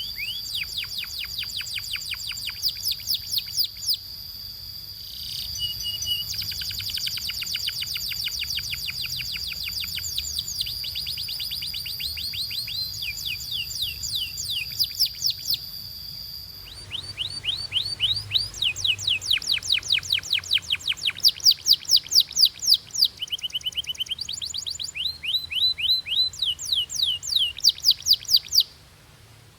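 Canary singing: a run of fast trills made of rapid repeated down-slurred notes, the phrases changing speed and pitch, with a steady high tone held beneath them for the first half.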